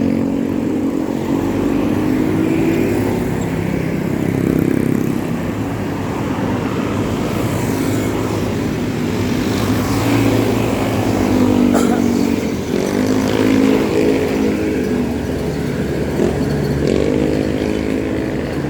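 Road traffic beside a bicycle: engines of passing motorcycles and cars running, their pitch rising and falling as they speed up and ease off, with one rising rev near the end.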